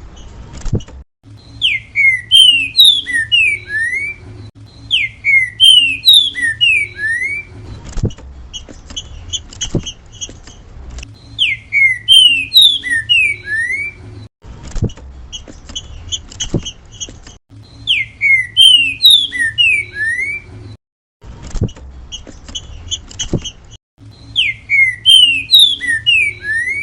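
Green-winged saltator (trinca-ferro) singing its 'grego mole boi' song type: a short phrase of loud, clear whistles that slide down in pitch, repeated five times with pauses. Softer rapid chirping fills the pauses, with a low hum and a few sharp clicks underneath.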